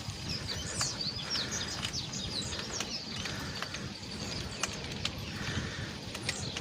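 Birds chirping in quick, rapid series, densest in the first half, over a steady low background noise.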